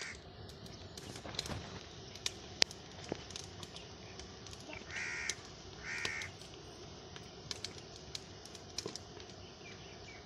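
A bird calling twice, two short calls about a second apart, over scattered sharp clicks; the loudest sound is a single click.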